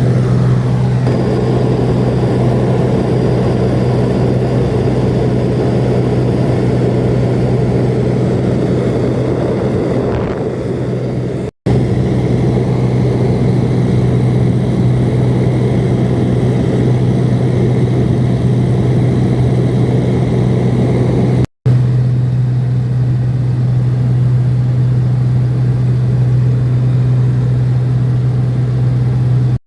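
Steady drone of a small seaplane's engine and propeller heard from inside the cabin in cruising flight, with a constant low hum. The sound cuts out abruptly for a moment twice.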